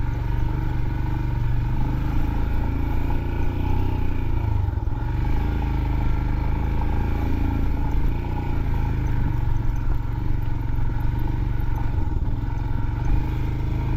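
Motorcycle engine running steadily while the bike is ridden up a rough off-road hill trail.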